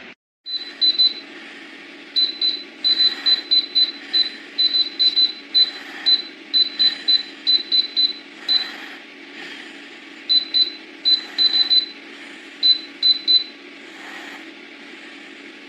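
Gevi air fryer toaster oven's control panel beeping over and over in short, high-pitched beeps, at one pitch in irregular runs that speed up and pause, over a steady low hum. The beeping is the fault the owner complains of: the oven beeps non-stop while its display blinks, for no reason she can find.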